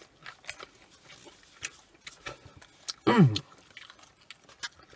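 Close-up chewing of crispy battered deep-fried rings: irregular small crunches and mouth clicks. A short voice falling in pitch comes in about three seconds in and is the loudest sound.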